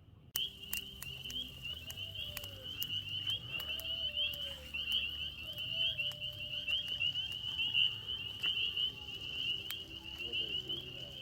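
Chorus of frogs calling, a steady high-pitched trilling with a fine pulse, with scattered sharp clicks and a few faint low calls beneath.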